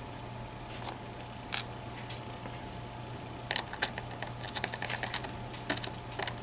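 Small metal sliders from a disassembled EVVA ICS lock cylinder clicking and tapping as they are handled: one sharp click about one and a half seconds in, then a quick run of light clicks from about three and a half seconds on. A steady low hum underneath.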